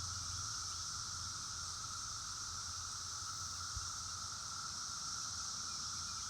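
Chorus of 17-year periodical cicadas, a steady unbroken drone of many males singing together, with two even pitches, one lower and one high.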